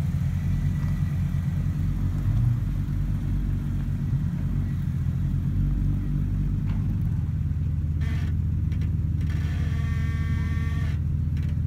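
Jeep Wrangler Rubicon's V6 engine running low and steady as it rolls slowly away.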